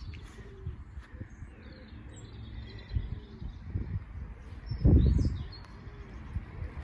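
Small songbirds chirping and twittering faintly in the background, over a low rumble on the microphone, with one brief louder low rumble about five seconds in.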